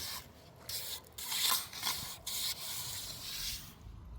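A hand tool scraping or rasping in a series of irregular strokes, about one a second, stopping near the end.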